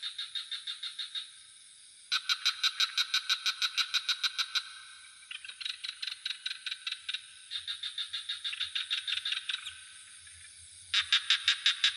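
Frogs calling in rapid rattling trills of about eight pulses a second, in bouts of one to three seconds that start, stop and overlap, over a steady high insect drone.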